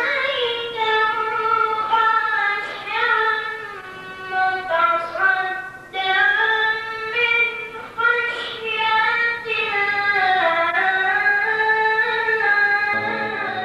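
A high child's voice reciting the Quran in melodic tajweed style, drawing out one phrase in a long ornamented line of held, gliding notes.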